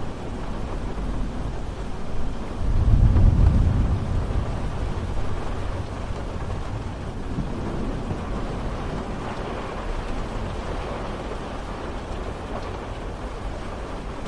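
Steady rain falling, with a low rumble of thunder that swells about three seconds in and slowly dies away.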